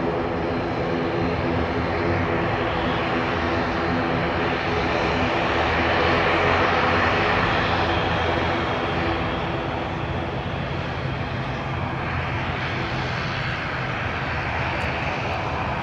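ATR 72-600 turboprop at takeoff power: a loud steady propeller and engine drone with a stack of low tones. It swells to its loudest about halfway through as the aircraft passes, then eases a little.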